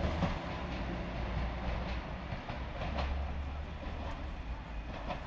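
Electric multiple unit train moving slowly past the platform: a steady low rumble with a few faint clicks from the wheels over the track.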